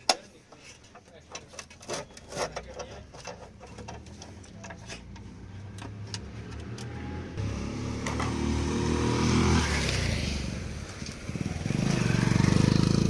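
A motor vehicle's engine running, growing steadily louder over several seconds, with people's voices.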